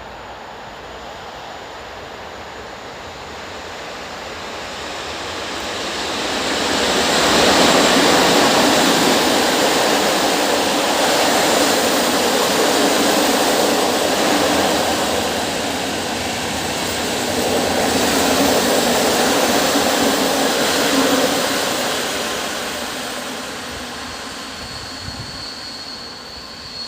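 An EP07 electric locomotive and its passenger coaches going by on the track. The rumble and wheel noise swell up over the first few seconds, hold loud for about fifteen seconds, then die away, with a faint high whine near the end.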